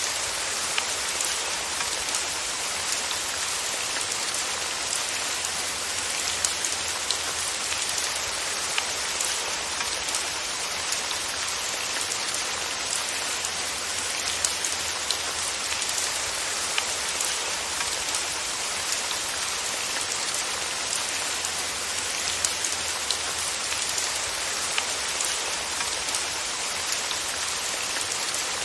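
Steady rain falling, a constant hiss with many small drops ticking on a surface, with no thunder.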